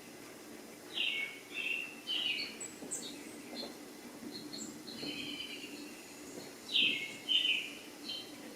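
A bird calling: a short run of three sharp chirps, repeated about six seconds later, over a faint steady background hum.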